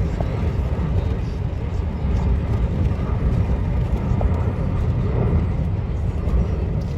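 Jet airliner engines giving a steady low rumble.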